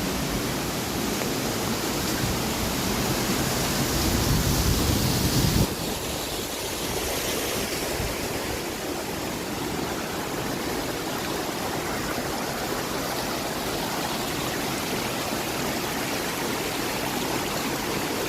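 Steady rushing of flowing water, like a forest stream or small falls, with no distinct events. A louder, deeper rumble mixed in stops suddenly about six seconds in.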